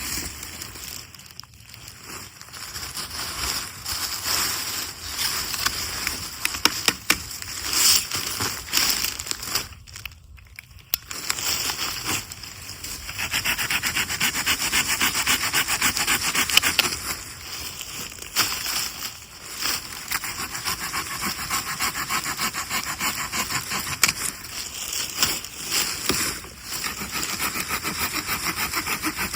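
Wood being sawn by hand, in steady back-and-forth strokes, with a few sharp knocks along the way.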